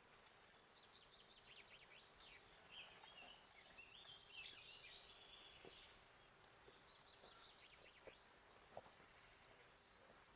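Near silence in the countryside, with faint bird chirps and twitters clustered in the first half and a faint steady high hiss or insect drone underneath.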